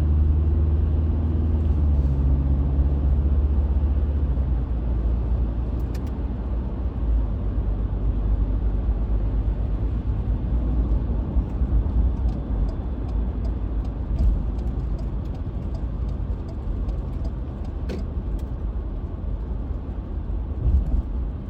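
A car driving, its engine and road rumble heard from inside the cabin. A steady engine tone in the first few seconds gives way to a plain low rumble, with a few faint clicks scattered through.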